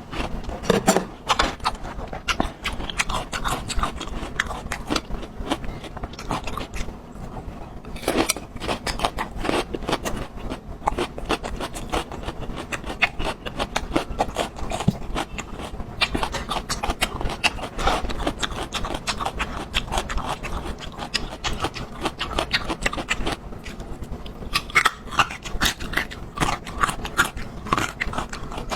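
Close-miked eating: chewing with wet mouth sounds and a dense run of short clicks and smacks.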